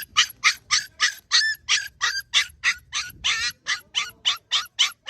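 A puppy yelping in a rapid run of short high-pitched cries, about three a second, with one longer cry about three seconds in.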